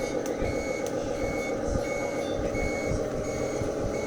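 1:14-scale RC Hino truck reversing, its reversing beeper sounding short beeps at one pitch about every 0.7 seconds over a steady running drone from the truck.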